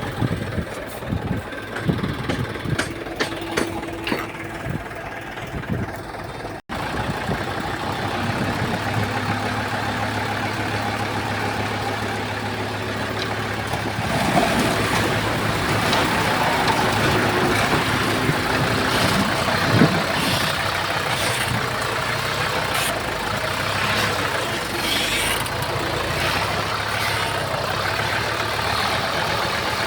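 Diesel engine of a Komatsu D31P crawler bulldozer running under work. Sharp metallic clanks come through during the first several seconds. After a brief break about seven seconds in, the engine runs steadily and gets louder about halfway through.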